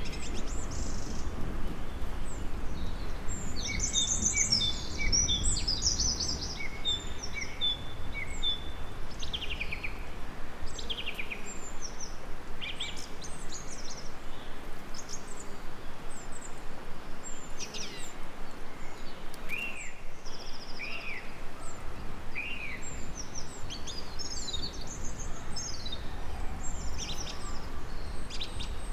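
Several songbirds chirping and singing in quick short phrases over a steady low background noise.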